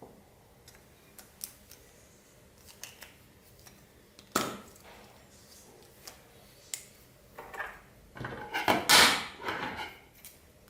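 Clear slime with plastic beads being worked by hand: scattered small clicks and pops, then a louder run of squishing and clicking about eight seconds in.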